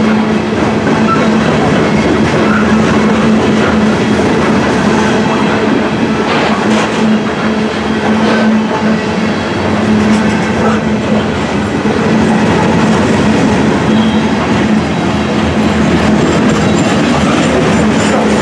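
Freight train cars rolling steadily past: a loud, continuous rumble of steel wheels on rail with clickety-clack over the rail joints and a steady hum.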